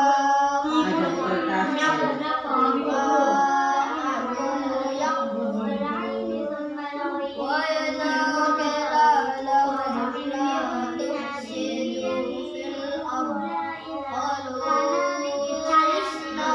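Children's voices chanting Qur'anic recitation in long, melodic held lines.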